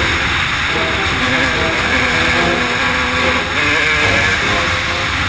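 A 125 cc enduro motorcycle engine running hard under the rider, its note rising and falling with the throttle and dipping briefly about two thirds of the way through, over a steady rush of wind noise.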